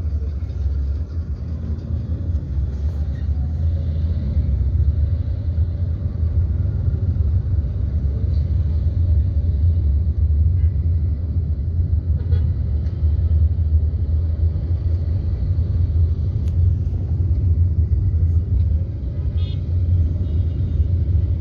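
Steady low rumble of a vehicle travelling along a road, with traffic noise.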